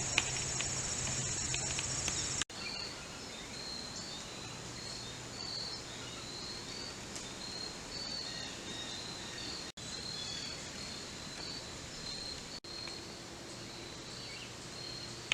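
Insects calling in woodland: a steady, high, pulsing trill for about the first two and a half seconds, then repeated short high chirps, over a faint low hum. The sound breaks off for an instant three times.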